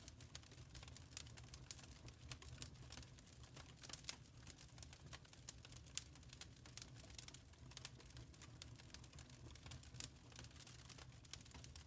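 Faint crackling of a wood fire in a fireplace: irregular small pops and snaps over a low, steady rumble.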